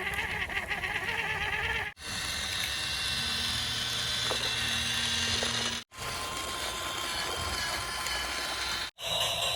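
Small electric motors whirring steadily, in short segments separated by abrupt cuts about 2, 6 and 9 seconds in.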